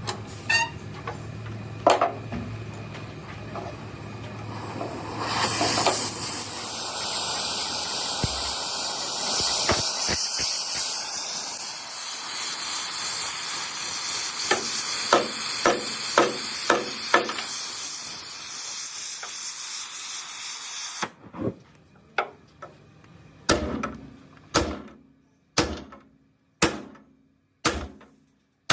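A loud, steady hiss of escaping air or gas for about fifteen seconds, which cuts off suddenly. Then come hammer blows on metal, about one a second, each ringing briefly.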